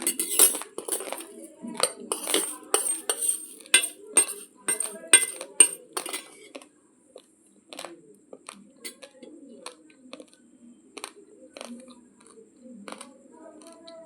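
Raw basmati rice grains being crunched between the teeth, close to the microphone: quick, sharp cracks, loud and dense for about the first six seconds, then sparser and quieter.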